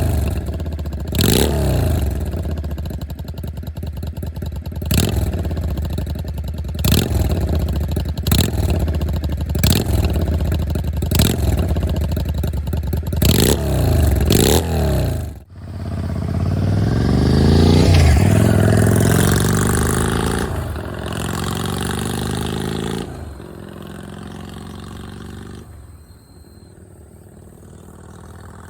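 Yamaha Drag Star 400 Classic's V-twin exhaust, revved in a series of short, sharp throttle blips for about fifteen seconds. After a sudden break, the engine runs up in a longer pull that peaks, steps down in a couple of stages, and fades away.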